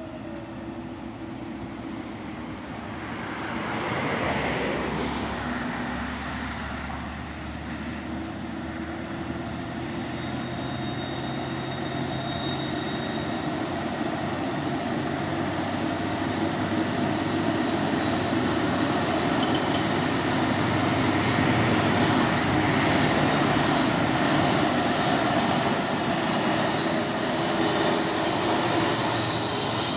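Hino truck's diesel engine running under load, growing steadily louder as it comes closer. A high steady whine joins about halfway through.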